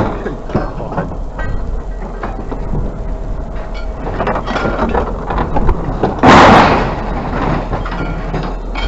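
Scrap being handled and thrown into a truck bed: small knocks and clatter over a steady low hum, then one loud crash about six seconds in.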